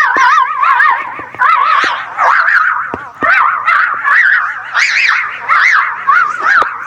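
A clamour of many overlapping, warbling animal calls, coming in pulses.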